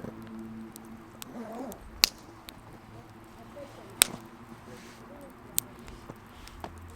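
Campfire firewood popping: two loud, sharp cracks about two seconds apart, a smaller pop a little later and a few faint ticks, over a low steady background.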